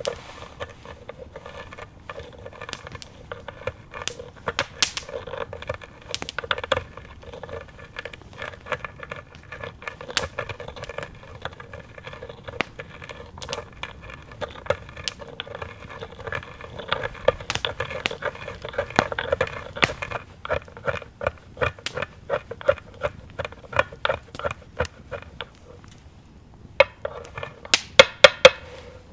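Irregular clicks, taps and light knocks of cooking utensils during food preparation. The taps come in a quick cluster near the end.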